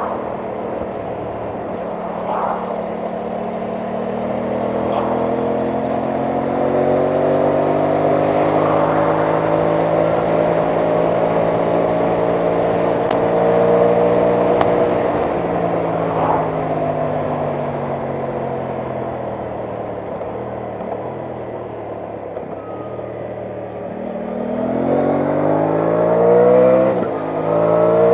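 Aprilia Tuono 660 Factory's parallel-twin engine running under way: its note rises slowly, eases back down, then climbs quickly in short steps near the end as the bike accelerates through the gears.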